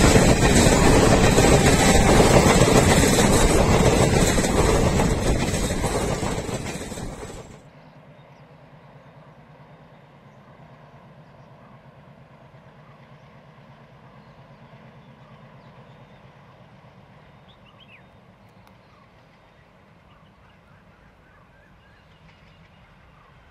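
Passenger coaches of a train rushing past close by: loud wheel and air noise that fades a little and then cuts off abruptly about seven seconds in. After that, the faint low rumble of a diesel locomotive approaching from far off, with a few bird chirps.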